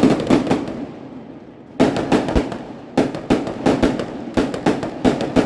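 Fireworks going off in sharp bangs and cracks: a cluster right at the start, a pause of about a second, then a dense run of bangs, several a second, to the end.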